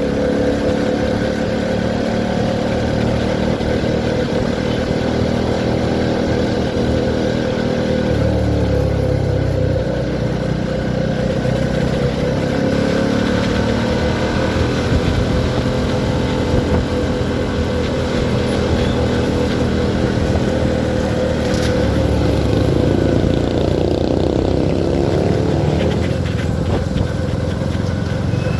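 CFMoto 300SR single-cylinder motorcycle engine running under way. Its note rises and falls with speed, with a clear change about eight seconds in and further rises and falls later.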